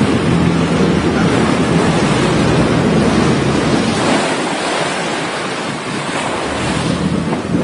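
Wind buffeting the microphone over rushing sea water alongside a boat, with a low steady hum under it.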